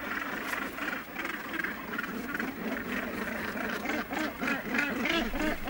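Northern gannets in a crowded nesting colony giving many harsh, rasping calls over one another, the din of birds squabbling over nest sites.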